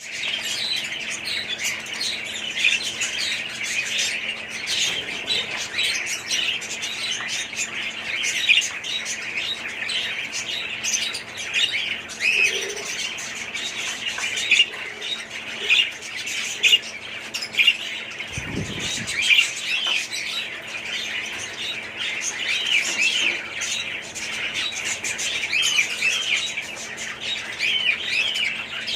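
A flock of budgerigars chattering and chirping continuously, many short overlapping calls and squawks. A steady low hum runs underneath, and a dull thump sounds about two-thirds of the way through.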